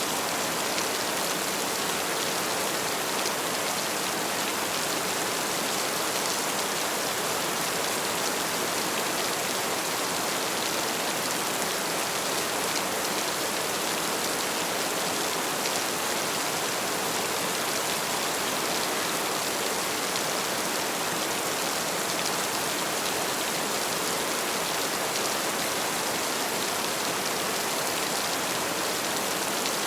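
Heavy rain falling steadily, a dense, even hiss with no break or surge.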